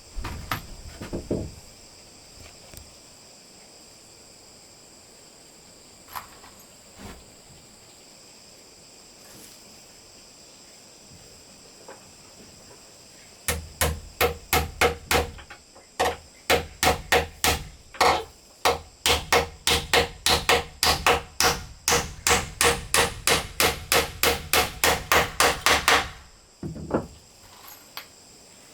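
Hammer blows on wood: a few scattered knocks at the start, then from about halfway through a long run of quick strikes, about four a second, that stops near the end. A steady high insect drone runs underneath.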